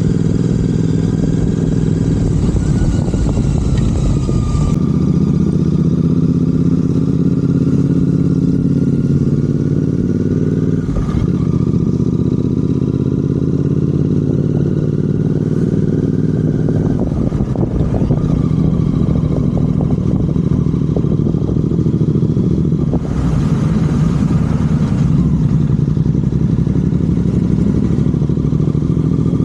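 Royal Enfield Continental GT 650's parallel-twin engine running through aftermarket Red Rooster exhausts while riding, a steady engine note that shifts pitch a few times.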